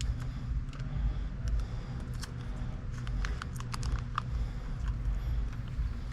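Scattered light clicks and taps from small parts being handled, most of them in the middle of the stretch, over a steady low hum.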